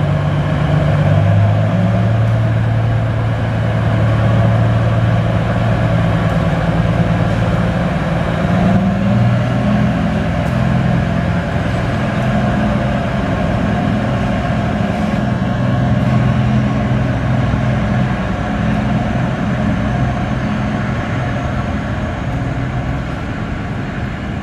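Cummins QSK45 V12 diesel engine of a diesel-electric multiple unit running, heard mostly as exhaust note. Its pitch shifts up and down a few times and it grows slightly quieter near the end.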